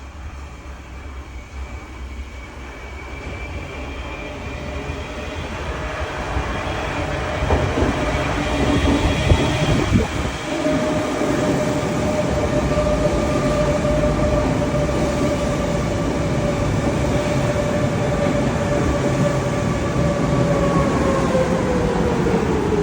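Electric rail car running on the track, growing louder over the first several seconds, with a steady motor whine that drops in pitch near the end as it slows.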